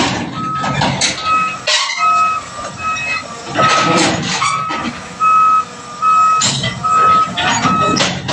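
Backhoe's backup alarm beeping steadily, about one beep every 0.8 s, as the machine reverses, over its diesel engine running. Several loud clanks and rattles break in.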